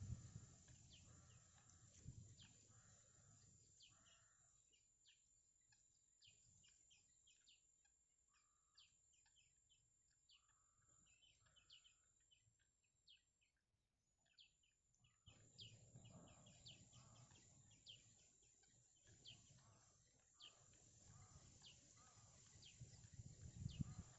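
Faint, quick bird chirps repeating throughout, with a low rumble rising in the second half.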